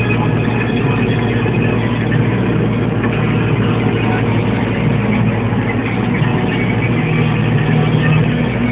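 MTZ 952 tractor's diesel engine running steadily under load while pulling a plough.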